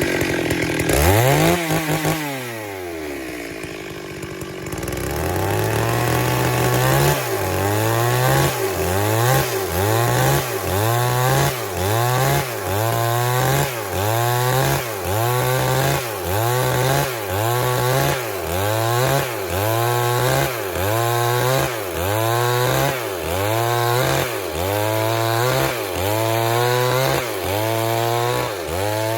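Stihl MS 382 two-stroke chainsaw ripping lengthwise through a log. About two seconds in its pitch drops and it runs lower for a few seconds, then it picks up and dips and recovers about once a second as it bogs under the cut.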